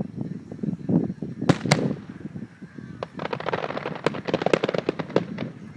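Aerial fireworks going off: a low rumble of booms, two sharp cracks about a second and a half in, then a rapid run of crackling pops for a couple of seconds.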